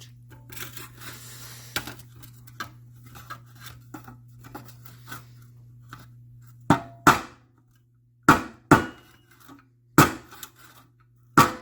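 Hammer tapping a dented metal car trim piece against a body dolly to work the dent out: light handling clicks at first, then about six sharp metallic taps in the second half, mostly in quick pairs. A steady low hum runs underneath.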